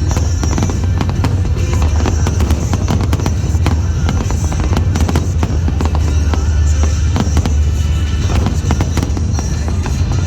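Aerial fireworks display: a dense run of rapid bangs and crackling, with no pause, over loud music.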